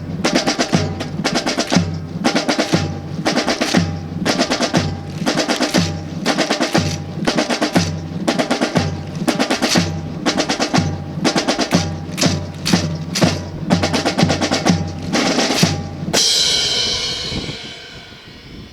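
Marching percussion section of snare and bass drums playing a fast rhythmic cadence, with pitched low drum strokes under rapid snare rolls. About sixteen seconds in the drumming stops on a crash that rings out and fades.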